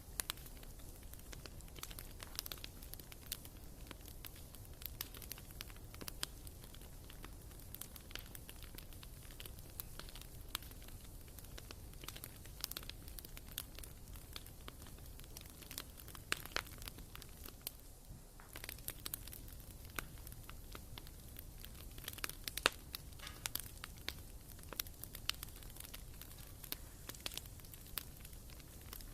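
Firewood burning in a fireplace, crackling with irregular sharp snaps and pops over a low steady rumble. The snaps come thicker about two-thirds of the way through.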